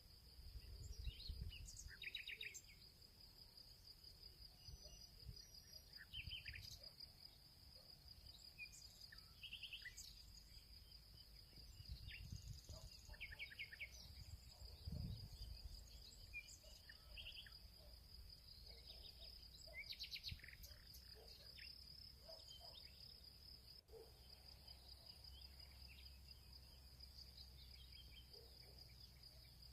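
Faint field ambience: a steady high-pitched insect trill, like crickets, runs throughout, with scattered short bird chirps and calls over it and a low rumble beneath.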